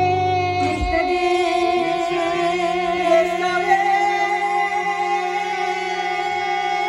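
Live acoustic band music with singing, closing on one long held note; the lower accompaniment drops out about a second in.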